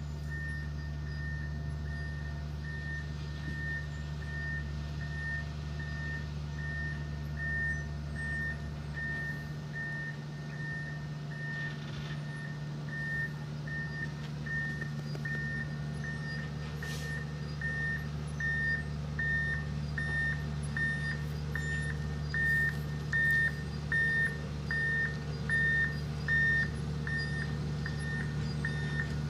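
Kirow railway crane's diesel engine running steadily while its warning alarm gives a regular series of short, high beeps, about one to two a second. The beeps grow louder in the second half.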